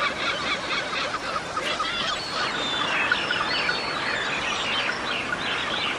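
A dense chorus of many birds calling at once: overlapping chirps, trills and whistles, steady throughout, over a constant background hiss.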